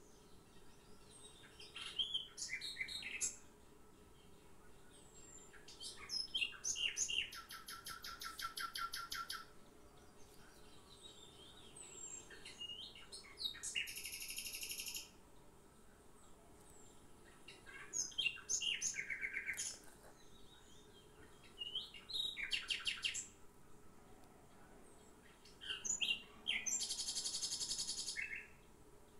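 A songbird singing: about six phrases of high chirps, each ending in a rapid trill, repeated every few seconds.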